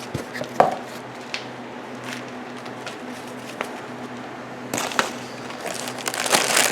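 A few light knocks and clicks of parts being handled, then from about five seconds in a rustling, crinkling of packaging as a new boxed clutch part is unpacked.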